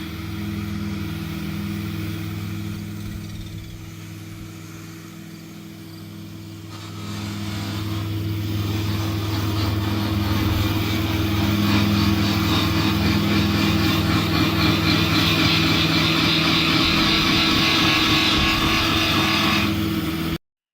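Truck engine running steadily on the road, a low drone with road and wind noise over it; it eases off for a few seconds, then grows louder about seven seconds in, and cuts off suddenly near the end.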